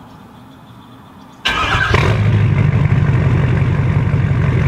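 Straight-piped Ford diesel pickup engine cold-started: quiet for about a second and a half, then a brief crank and the engine catches and settles into a steady loud idle.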